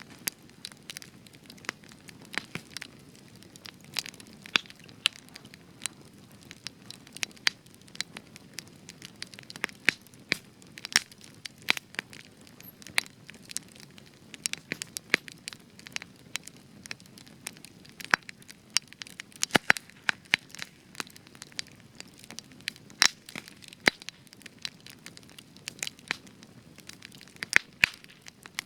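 Spruce-wood campfire burning with frequent, irregular sharp crackles and pops over a soft low hiss.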